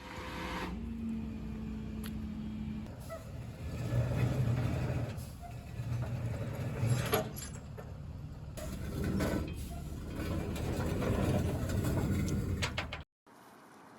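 Truck engine running in a series of short cuts, low and rumbling, with a few sharp clunks in between; the sound cuts off suddenly near the end.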